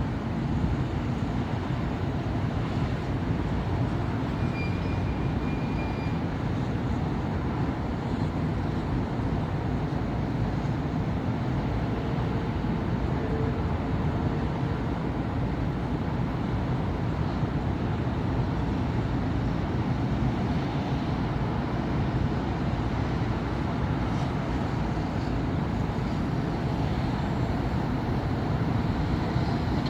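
Steady road traffic on a busy city avenue: a continuous low rumble of car engines and tyres passing, with no single vehicle standing out.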